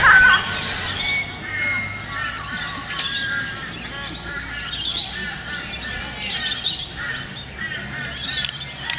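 Birds calling in the park trees: a steady run of short, repeated chattering calls, with one louder, sharper call right at the start.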